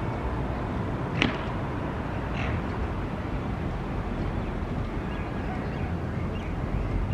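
Steady low rumble of outdoor city background noise, with one brief sharp high click about a second in and a few faint short high sounds later.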